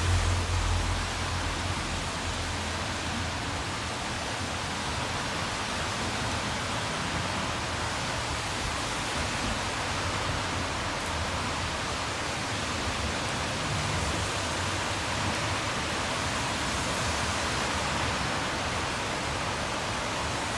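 Steady hiss of rain, with the low rumble of passing traffic in the first couple of seconds that then fades.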